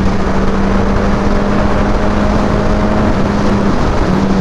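2011 Suzuki Hayabusa's 1340 cc inline-four running steadily at highway cruising speed, under heavy wind rush on the helmet-mounted microphone. The engine note holds one pitch, then eases slightly lower near the end.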